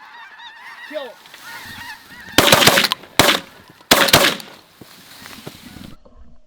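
Snow geese honking, then a volley of shotgun fire from several hunters in three heavy bursts, about two and a half to four seconds in. The sound cuts off suddenly near the end.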